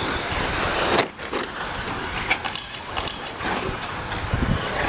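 Electric 1/10-scale short-course RC trucks racing on the track, motors whining in short bursts over a steady noise of running trucks.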